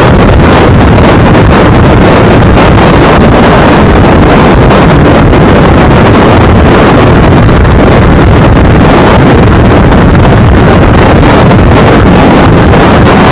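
Loud, steady wind buffeting a microphone on a moving vehicle, with a low rumble underneath.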